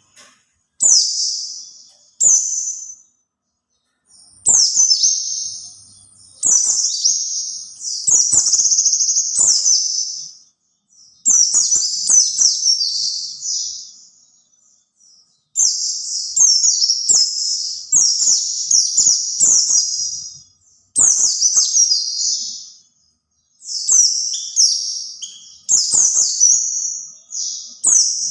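White-eye (pleci) singing: rapid, high-pitched twittering phrases of one to four seconds each, repeated with short pauses between them.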